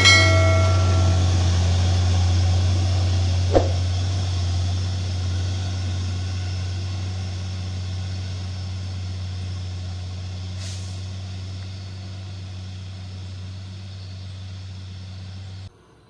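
Loaded coal truck's diesel engine pulling under load, a deep steady drone that slowly fades, with the tail of a horn toot in the first second and a single sharp knock about three and a half seconds in. The sound cuts off abruptly near the end.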